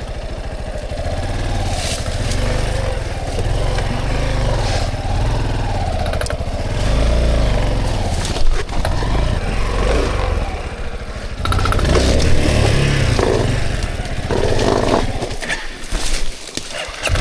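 Dirt bike engine rising and falling in pitch as it is worked over logs on a rough trail, with a few sharp knocks from the bike. The engine sound drops away briefly near the end.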